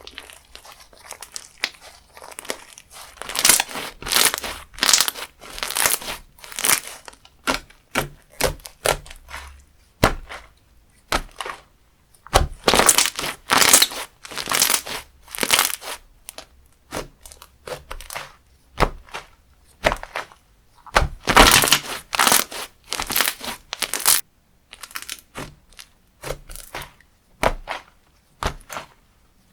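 Crunchy slime being squeezed and pressed by hand, giving quick crackling, crunching pops in irregular bursts, loudest in three clusters with quieter squishing between.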